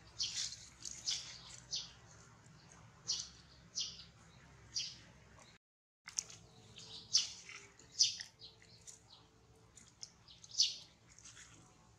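Birds chirping: short, high chirps come irregularly, sometimes several a second, over a faint steady outdoor background. The sound cuts out completely for about half a second near the middle.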